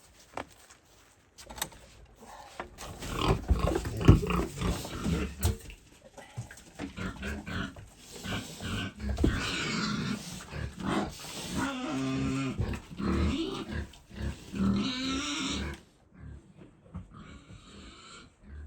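Piglets grunting and squealing in a thick, irregular run of calls that dies away near the end.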